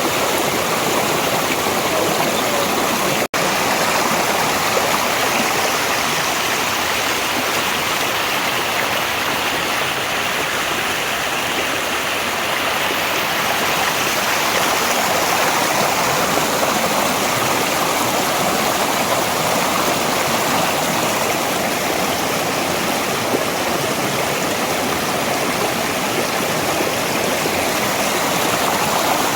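Mountain valley stream rushing and splashing steadily over rocks, with a momentary break in the sound about three seconds in.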